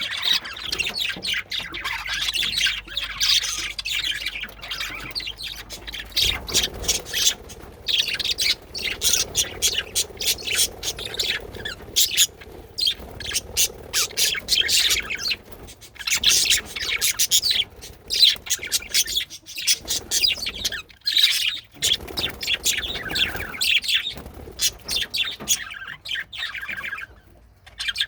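Male budgerigars chattering, with rapid high chirps and warbles that go on almost without a break and pause briefly a few times.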